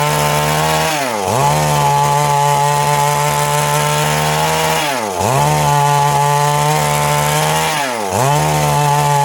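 Stihl MS382 two-stroke chainsaw running at high revs while cutting wood; its engine speed sags sharply and picks straight back up three times.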